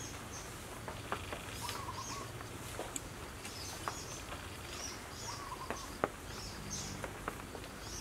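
Birds chirping, with short high chirps repeating throughout and a lower warbled call twice. A few light clicks of utensils on a bowl.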